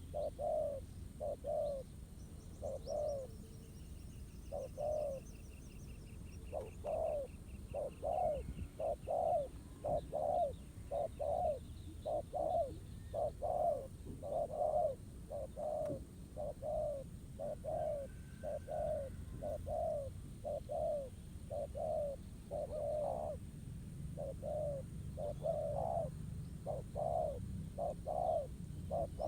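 Spotted doves cooing in a dove-trapping contest, a continuous run of short low coos at roughly one to two a second. A small bird twitters faintly and high a few seconds in.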